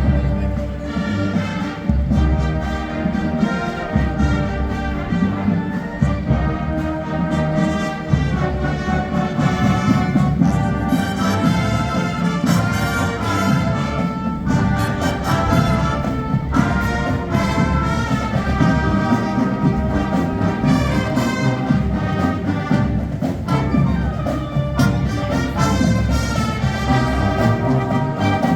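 High school band playing a piece with brass leading, trombones and trumpets prominent over a steady low end.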